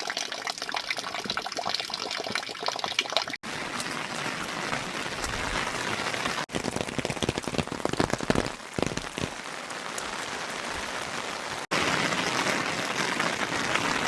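Heavy rain falling, a steady hiss with dense patter of drops, changing abruptly three times as different stretches of rain sound follow one another.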